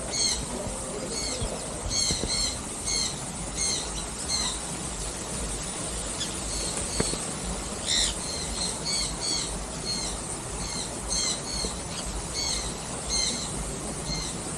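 Aviary birds giving short, high squeaky chirps again and again, roughly two a second, over a low steady rumble.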